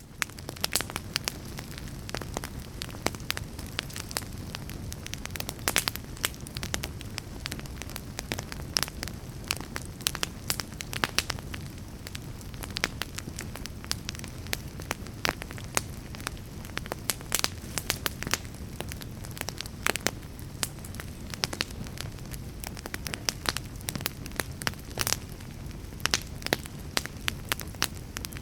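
Fire crackling: frequent, irregular sharp pops and snaps over a steady low rumble and hiss of burning.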